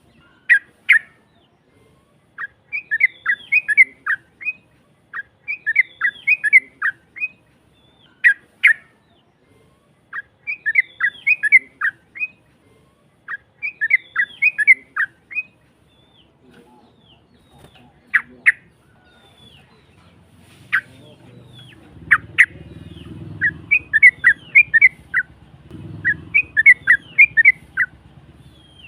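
Sooty-headed bulbul (trucukan) singing a rough-voiced song of short phrases, each a quick run of chirping notes, repeated about every three seconds.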